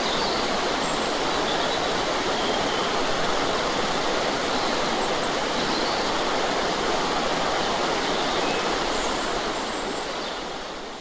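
Steady rush of falling water from rain and a small cascade, fading out over the last second or two.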